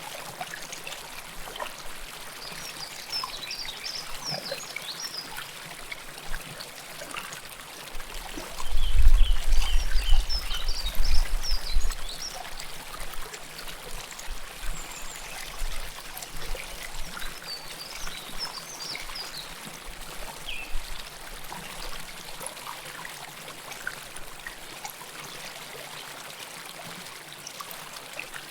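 River water flowing close to the microphone: a steady rush with many small trickles and splashes. A low rumble swells for about three seconds, starting about eight seconds in.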